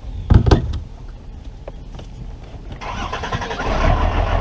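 Boat motor starting: two sharp knocks near the start, then about three seconds in the engine catches and settles into a steady, pulsing run. It is running rough, struggling in the thin air at altitude.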